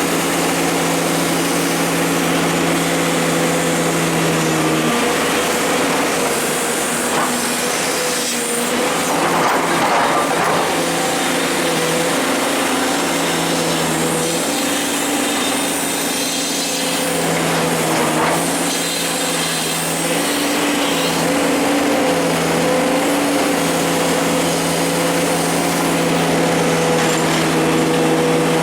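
Hydraulic excavator's diesel engine running under load, its pitch stepping up and down as the hydraulics work, with a few rougher, noisier stretches partway through.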